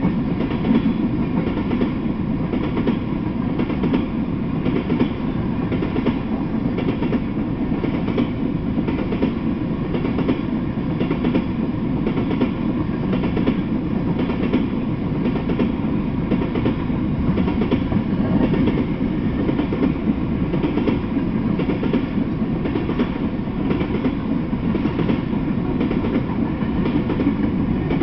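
Freight train of tank cars rolling past: a steady rumble of steel wheels on the rails, with repeated clacking as the wheels run over rail joints.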